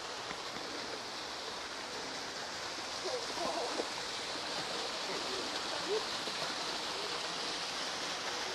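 Steady rushing of a garden waterfall, with faint distant voices briefly a few seconds in.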